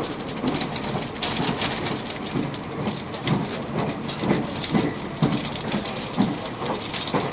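Argo Bromo Anggrek passenger train running at speed, heard on board: a steady rushing noise with irregular low thuds.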